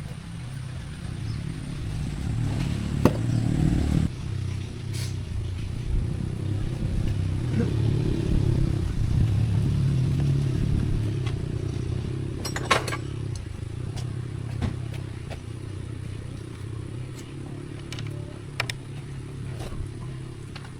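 An engine running steadily, louder in the first half and easing back toward the end, with a few sharp clicks over it.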